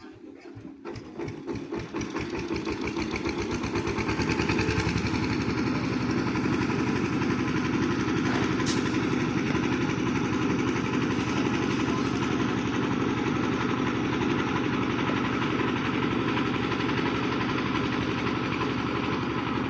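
An engine starting up: separate firing strokes quicken over the first few seconds as it picks up speed, then it runs steadily.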